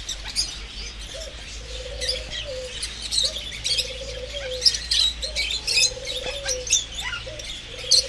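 Wild birds chirping, many quick high chirps overlapping, with a low call that rises and falls slightly, repeated about every two seconds.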